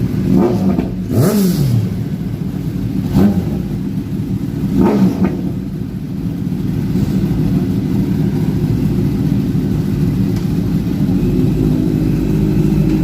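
Motor vehicle engines running on a highway, with a steady low drone. Just after a second in, one vehicle passes and its pitch falls as it goes by, and shorter passes follow near three and five seconds.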